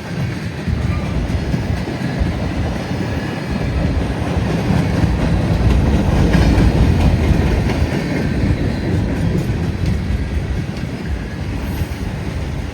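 Freight train cars rolling past at speed, steel wheels clicking over the rail joints over a steady rumble.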